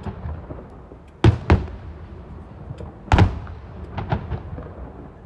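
Aerial fireworks shells bursting: sharp booms in quick pairs, about a second in and again around three seconds, then a few lighter bangs around four seconds, each trailing off in a rumbling echo.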